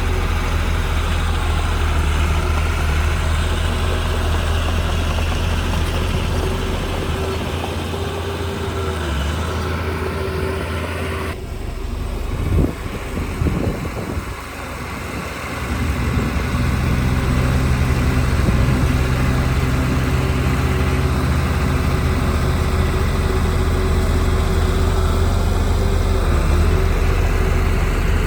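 Diesel engine of heavy earthmoving machinery running steadily. The sound changes abruptly about eleven seconds in, with a few louder, uneven moments over the next few seconds before the engine settles again.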